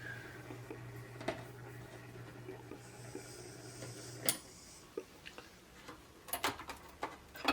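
Faint scattered clicks and taps of fingers handling a small diecast model car, over a low steady hum that cuts off with a click about four seconds in.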